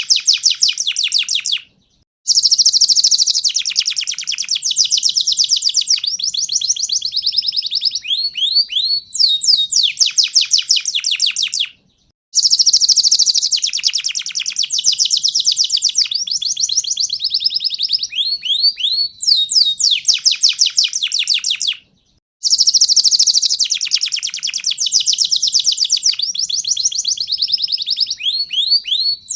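Panda domestic canary singing: fast rolling trills and rapid chirp series at several pitches. The same song phrase repeats about every ten seconds, each time after a short break.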